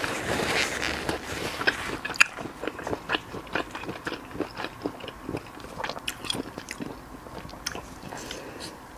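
Close-miked biting and chewing of deep-fried skewered food, a run of many short crisp crunches, thickest in the first two seconds.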